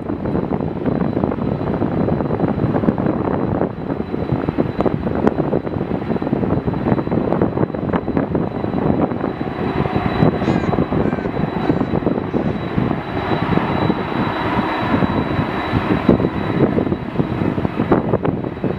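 Jet airliner's engines running loud and close, a deep rumbling noise with a higher whine that strengthens about halfway through.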